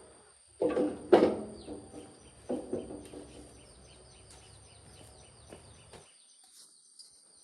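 A few sharp knocks with a short ring, loudest about a second in and again near three seconds in, with birds chirping in the background.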